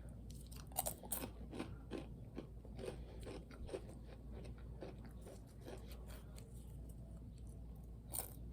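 Chewing Cheez-It crackers close to the microphone: irregular crisp crunches, thicker in the first few seconds and thinning out toward the end.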